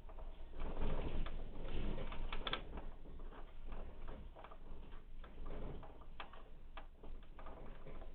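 Loose household objects rattling and clicking as an earthquake shakes the building, densest in the first few seconds and thinning to scattered ticks, over a low rumble.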